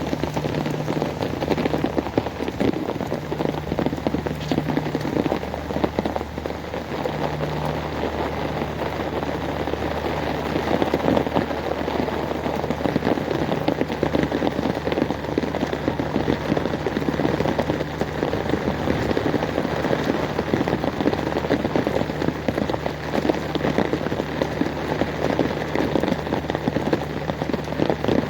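Rain falling steadily: a dense patter of many drops striking a hard surface.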